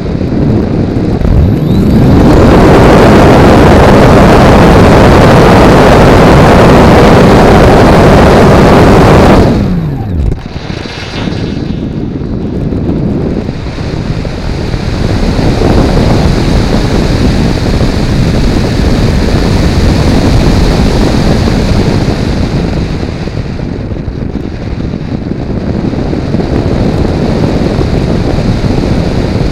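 Multiplex Blizzard model plane's PolyTec electric motor and propeller throttled up about a second and a half in, rising in pitch, running at full power, then throttled back about nine and a half seconds in with a falling whine. For the rest, air rushes over the onboard camera as the plane glides.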